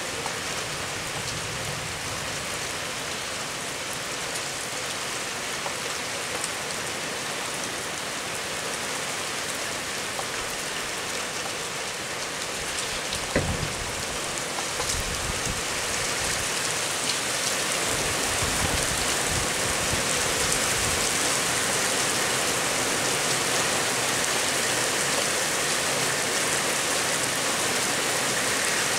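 Steady rain falling during a squall-line storm, growing louder about halfway through. Near the middle there is one sharp knock, followed by a few seconds of low rumbling.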